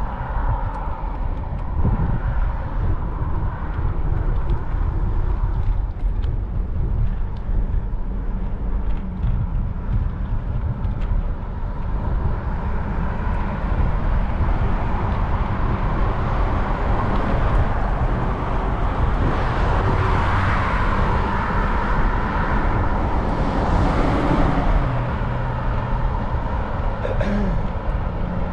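Wind rumbling on the microphone of a moving bicycle, over road traffic. Past the middle, a car's noise swells and fades as it passes.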